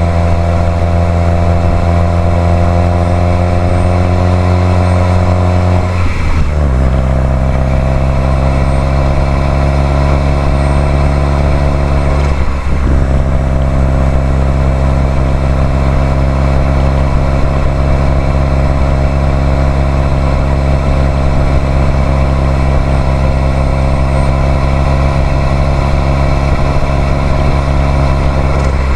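2018 Subaru WRX STI's 2.0-litre turbocharged flat-four engine running steadily under way. Its note steps down in pitch twice, about six and about twelve seconds in, as at gear changes, then holds an even pitch.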